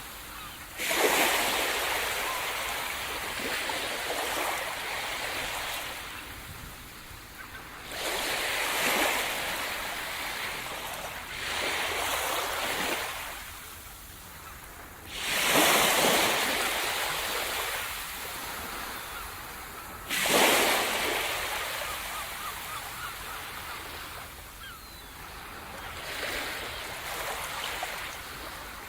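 Sea surf breaking on the shore: about six waves, each arriving with a sudden rush and then fading to a hiss as it washes back.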